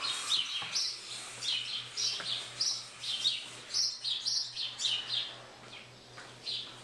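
Small birds chirping: many short, high chirps in quick succession, several a second, busiest in the first five seconds and thinning out near the end.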